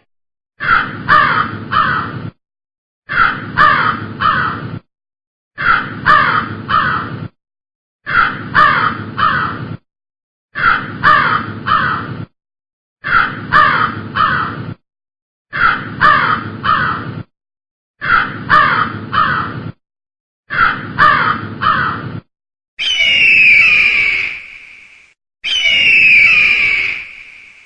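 Crow cawing in bursts of three harsh caws, the same burst repeated nine times about every two and a half seconds. Near the end it changes to an eagle's high, descending scream, heard twice.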